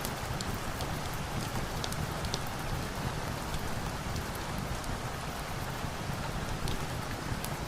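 Steady rain falling, with scattered small sharp ticks throughout.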